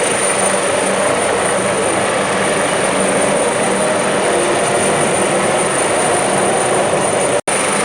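Search-and-rescue helicopter hovering low over water, its rotor and turbine a steady loud noise. The sound cuts out for an instant near the end.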